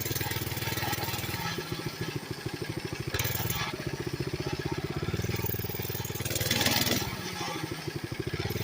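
Mini bike's small engine running steadily under way, its firing pulses even and rapid. Two short bursts of hiss, about three seconds in and near the end, sit over it.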